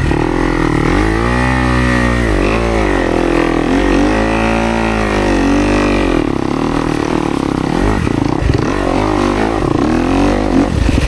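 Dirt bike engine revving hard and easing off over and over, its pitch rising and falling every second or two as a rider works the bike through a hard enduro section.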